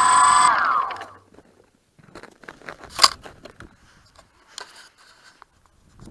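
DJI Phantom quadcopter's motor whine falling in pitch and stopping about a second in, as the motors wind down. After it come faint scattered crunches and clicks, with one sharp click about three seconds in.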